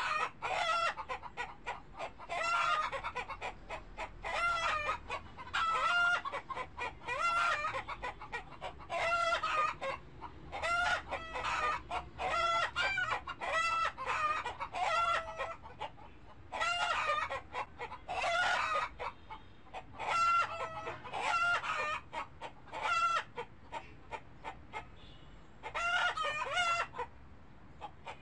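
Birds calling over and over in short, pitched calls, about one or two a second, with a brief pause near the end.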